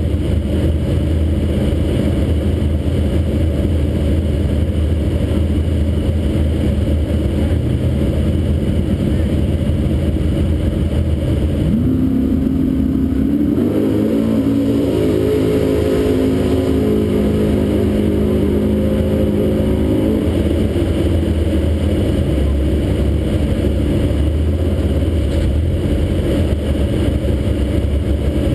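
Car engines idling with a steady deep rumble close by. About twelve seconds in, a higher engine note rises and holds steady for several seconds before fading out around twenty seconds.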